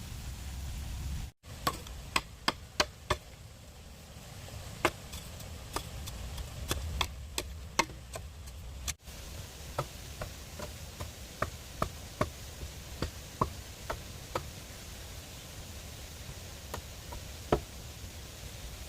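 Irregular sharp knocks from a tool striking bamboo, at times two or three a second, with two brief cut-offs.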